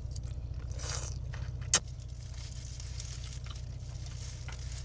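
A person chewing and crunching a mouthful of takeout noodles and vegetables, with a sharp click just under two seconds in, over a steady low hum.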